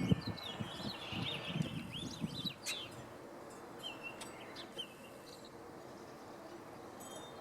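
Common grackles calling: a run of short gliding calls in the first couple of seconds, then a few sparse chirps. Low-pitched noise underlies the calls and stops about two and a half seconds in.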